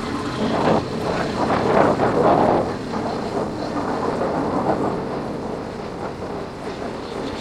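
Yamaha Factor 150 motorcycle's single-cylinder four-stroke engine running on the move, with wind rushing over the microphone. The sound grows quieter over the last couple of seconds.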